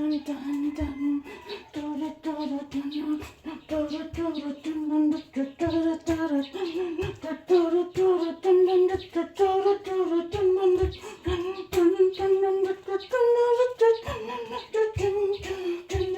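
A voice humming a tune in held notes that step gradually up in pitch, over a low thumping beat.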